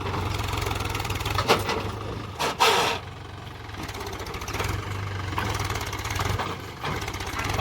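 Tractor's diesel engine running steadily, with a brief loud sharp sound about two and a half seconds in.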